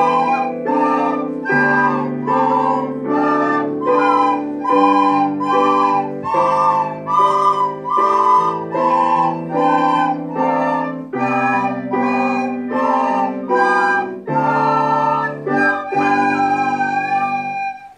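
Recorders playing a song melody in short, evenly paced notes over a sustained accompaniment; the music stops abruptly near the end.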